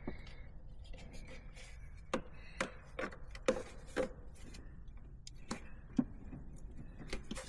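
Scattered light clicks and knocks, about a dozen at uneven intervals, as intake tubing and its rubber coupler are handled and pushed into place.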